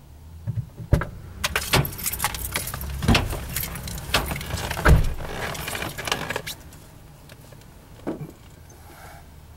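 Freight cars rolling across an overhead steel railroad bridge: a low rumble with a run of sharp metallic clanks and rattles, thickest in the first two-thirds and thinning out after about six seconds, with one last clank near the end.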